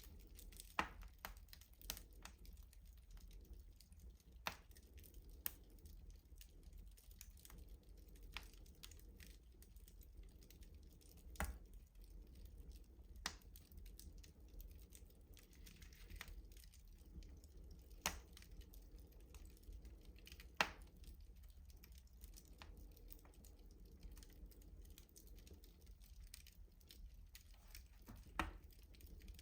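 Wood fire burning in a rustic stove, crackling with irregular sharp pops and snaps over a low steady rumble.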